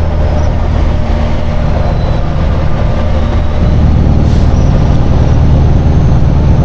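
Semi truck's diesel engine running steadily under way, a loud low drone that shifts in pitch and grows a little louder about three and a half seconds in, with a brief hiss just after.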